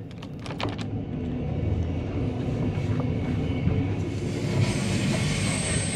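Steady rumble of a moving passenger train heard from inside the carriage, with a hiss that grows louder about four seconds in.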